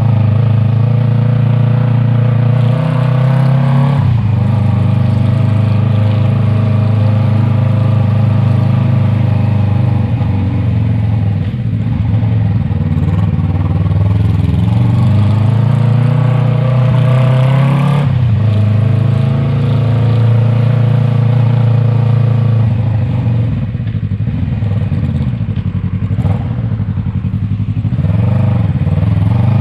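Yamaha MT-03 parallel-twin engine through an aftermarket Arashi exhaust, riding along: the engine note climbs as the bike accelerates and changes abruptly about four seconds in and again around eighteen seconds in, as at gear changes or throttle changes.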